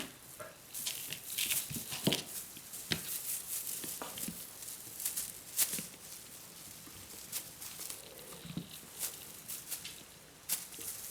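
Kittens playing with toys and a cat play station: irregular scrabbling, rustling and light knocks of paws and toys.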